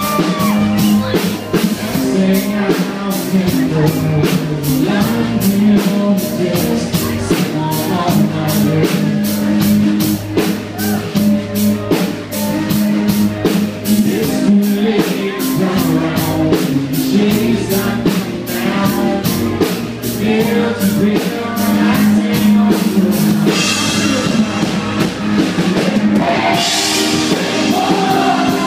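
Live band music with a male lead singer, drums keeping a steady beat.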